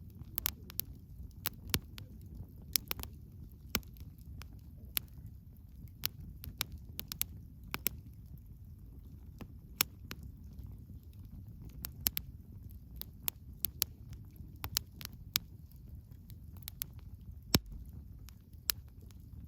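Wood campfire crackling: frequent irregular sharp pops and snaps over a low, steady rumble of the flames, with the loudest pop near the end.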